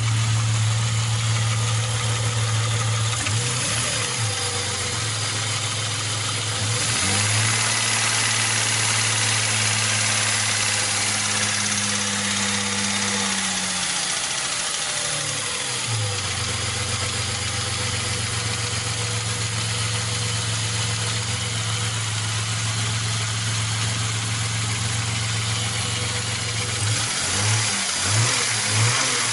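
Opel Omega B's 2.5-litre X25XE V6 engine running at idle with a knock in the engine. About a third of the way in the engine note shifts for several seconds, and near the end it pulses unevenly as the throttle is blipped.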